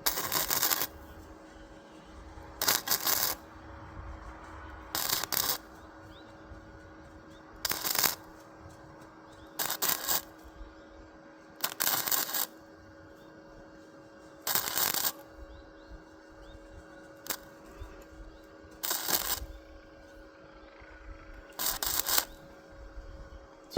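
About nine short noisy scrapes or rustles, one every two to three seconds, over a steady low hum.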